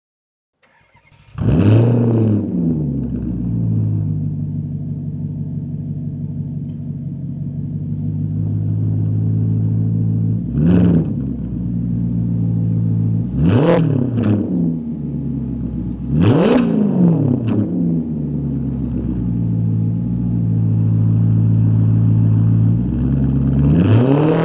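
2012 Maserati Quattroporte S's V8 starting about a second in with a sharp flare, then settling to a steady idle. It is blipped three times around the middle and revs up again near the end.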